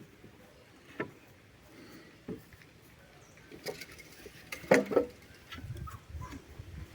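Scattered knocks and clatters of wood being handled while building a bonfire, about five in all, the loudest two close together a little after the middle.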